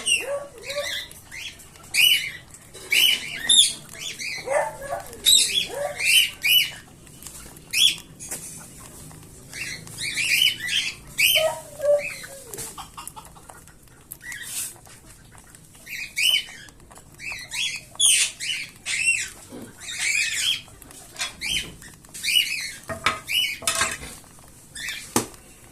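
Cockatiel chicks' begging calls: short high calls repeated in clusters, with a lull partway through and a few sharp clicks.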